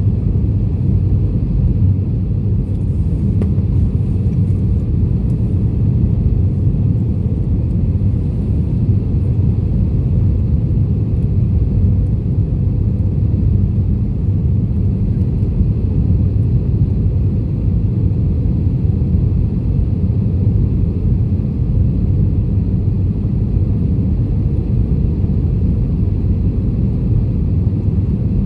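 Steady low rumble of an Airbus A320 airliner, unchanging in level.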